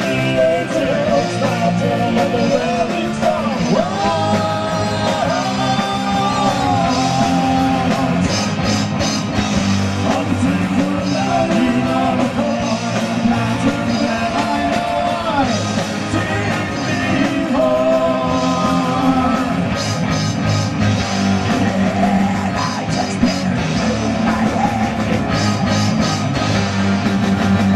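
Live heavy rock band playing loud, with distorted guitars, drums and a shouted lead vocal.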